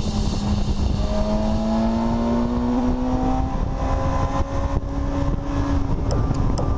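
BMW S1000RR inline-four engine pulling in gear, its note climbing slowly and steadily as the bike gathers speed, under heavy wind rumble on the microphone.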